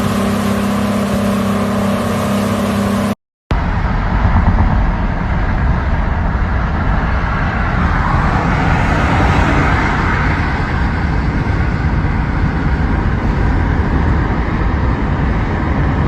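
Boat engine running at a steady pitch; after a brief cut about three seconds in, a loud rushing noise with a heavy low rumble, the engine and boat under way.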